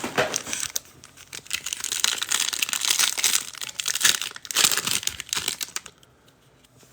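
Plastic trading card pack wrappers crinkling and tearing as packs are ripped open by hand. The dense crackle stops about six seconds in.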